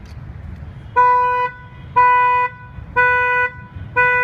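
Electronic beeper of a Chevrolet Spark sounding in a steady pattern: one half-second beep every second, starting about a second in.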